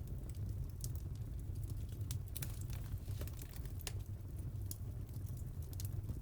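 Wood fire crackling in a fireplace: irregular sharp pops and snaps, a few clustered around two to four seconds in, over a steady low rumble of the flames.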